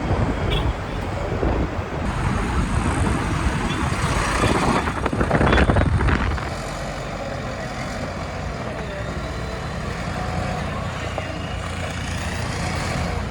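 Diesel engine of a JCB 3DX backhoe loader running under load, louder for the first six seconds or so and then settling to a steadier, quieter run.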